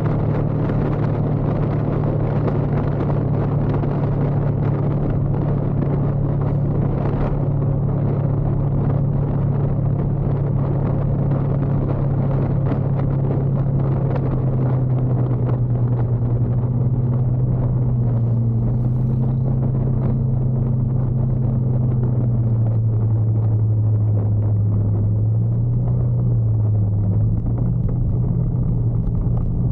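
Motorcycle engine running steadily under way, with a dense rumble of wind and road noise. Its note sags for a few seconds in the latter part as the bike slows, then picks up again.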